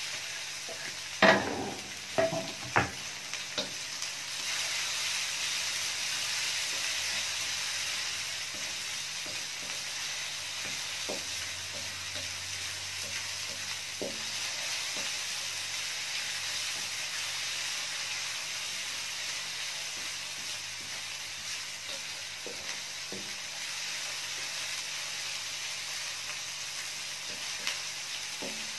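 Ground spice paste and chopped tomatoes sizzling in hot oil in a nonstick wok. A few sharp knocks come about a second in as the tomatoes are tipped in off a cutting board. The sizzle swells just after and runs on steadily, with occasional light spatula scrapes.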